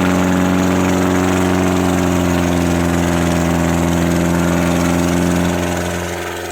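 Tractor diesel engine running at a steady speed with an even low hum, growing quieter from about five and a half seconds in.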